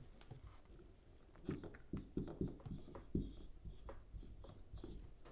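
Faint handwriting strokes: a scatter of soft taps and scratches, most of them between about one and a half and four seconds in.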